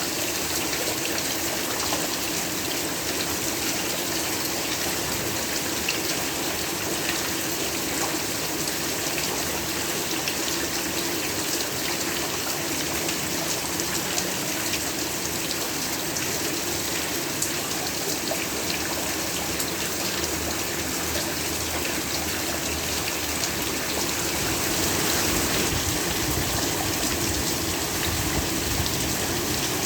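Heavy, steady rain falling, a dense hiss with fine droplet patter that swells slightly about 25 seconds in.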